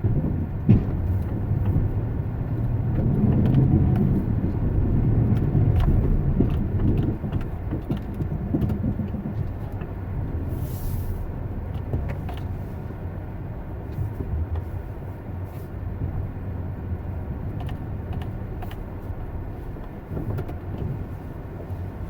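A vehicle's low, steady road rumble that swells and eases, with scattered faint clicks.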